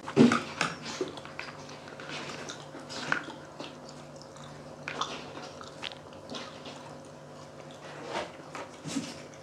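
Close-up eating sounds: chewing and lip smacks as fried pork cheek and rice are eaten, scattered irregular clicks with the loudest just after the start.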